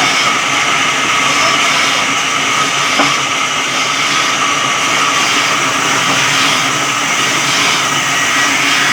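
Electric sawmill's saw running through wood, a loud, steady, continuous cutting noise with a faint whine in it.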